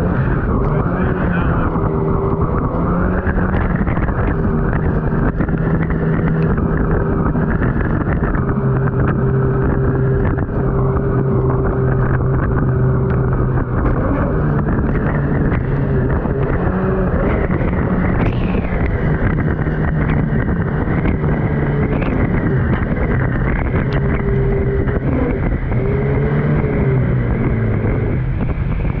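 Turbocharged Honda engine of a mini jet boat running hard under way, its note holding fairly steady with small shifts in pitch, over rushing water and wind on the microphone.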